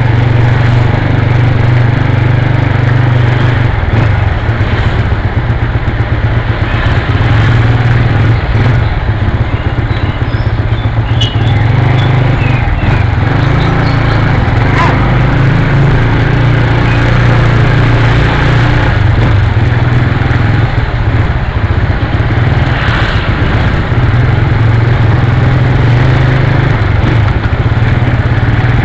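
Motorcycle engine running at a steady pitch while being ridden, with a constant rushing noise over it.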